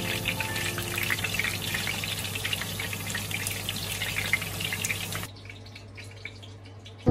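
Potatoes sizzling and crackling in hot oil in a frying pan. The sizzle stops abruptly about five seconds in, leaving only a faint low hum.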